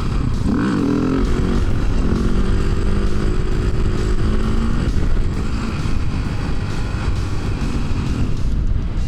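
Motorcycle engine running under way, revving up and down about half a second in, then holding a steadier pitch for a few seconds, over continuous riding noise.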